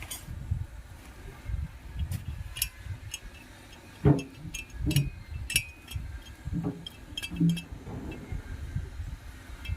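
Metal parts and tools clinking and knocking against each other in irregular, scattered taps while a starter motor is being worked on by hand, with one louder knock about four seconds in.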